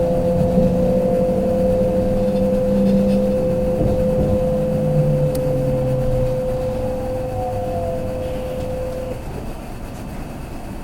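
Kintetsu limited express electric train running and slowing, heard from inside a car. A steady electric motor whine with a few fainter falling tones above it stops about nine seconds in, while the running rumble fades, as the train brakes on the approach to Ikoma station.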